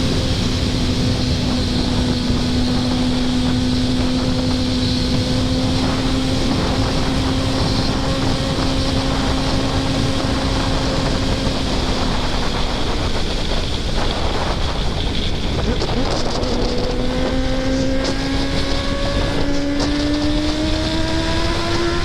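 2024 Kawasaki ZX-10R's inline-four engine running at a steady pitch, fading out for a few seconds past the middle, then climbing slowly in pitch toward the end as the bike pulls. Heavy wind noise on the microphone throughout.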